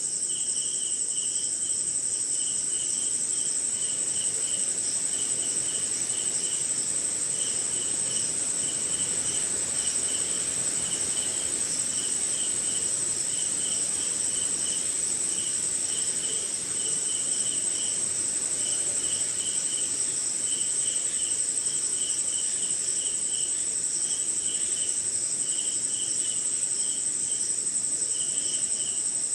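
Night chorus of crickets and other insects: one high, steady, unbroken trill over a lower chirping that comes in quick, evenly spaced runs, with a faint hiss beneath.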